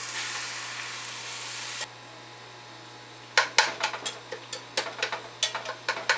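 Ground beef sizzling in a frying pan, the hiss cutting off abruptly about two seconds in. From about halfway on, a utensil scrapes and knocks against the pan in quick irregular strokes as the meat is broken up.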